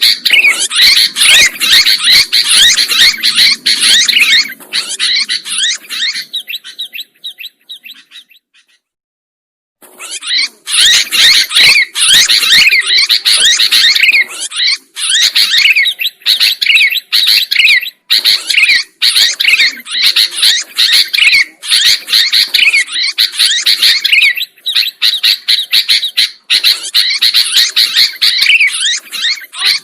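Sooty-headed bulbuls (kutilang) calling and chattering fast and loudly, with quick overlapping chirps. The calls fade out about seven seconds in, stop for about two seconds, and start again loud at about ten seconds.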